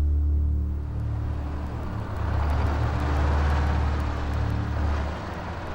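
A low, pulsing engine rumble, with a rush of noise that swells through the middle and fades near the end.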